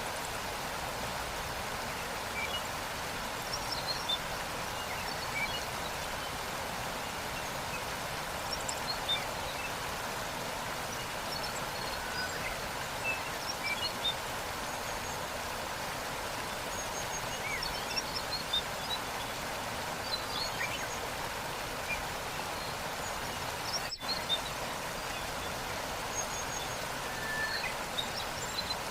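Waterfall rushing steadily, with small birds chirping now and then over it.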